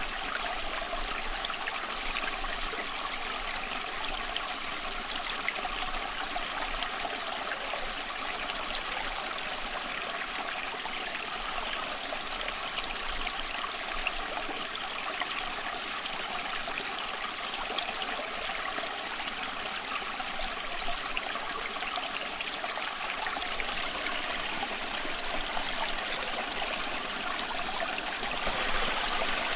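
Small stream of water flowing and trickling steadily over stones, a continuous bubbling rush with a slight swell near the end.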